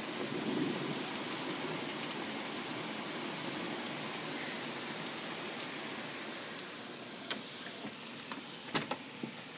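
Very hard rain pouring down, heard from indoors through a window as a steady dense hiss that eases slightly in the last few seconds. A couple of brief sharp taps come near the end.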